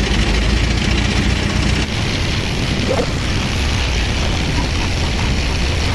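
Heavy vehicle engine running steadily under load, with dense road and mechanical noise.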